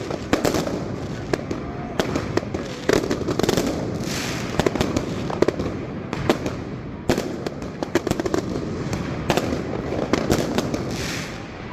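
New Year fireworks and firecrackers going off in quick succession, many sharp bangs and pops a second over a continuous crackle, with a couple of rising hisses from rockets or fountains.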